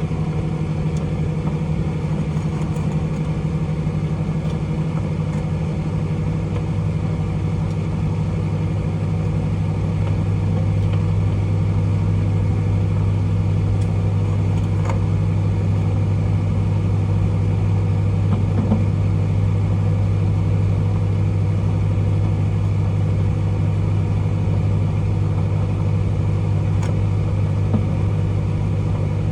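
Microwave oven running: a steady, low electrical hum, with a couple of faint ticks about halfway through and near the end.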